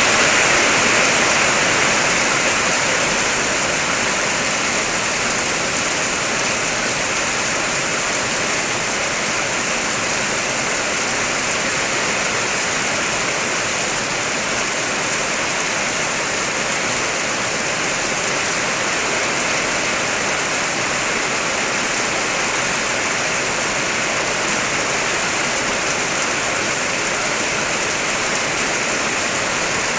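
Heavy rain falling steadily on a car's body, heard from inside the car as a dense, even hiss. It eases slightly in the first few seconds, then holds steady.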